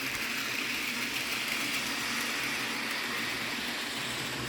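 Bachmann HO-scale Thomas the Tank Engine model locomotive running steadily along its track, its small electric motor and wheels making an even whir.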